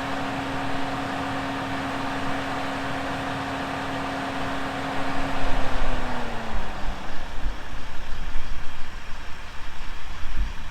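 Four-wheel-drive's engine running steadily. About six seconds in its note falls away and dies, followed by louder uneven rumbling with low thumps.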